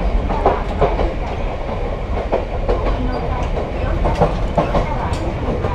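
A Wakayama Electric Railway electric train running on the line, heard from inside the passenger car: a steady low rumble with irregular knocks and clacks from the wheels and car body.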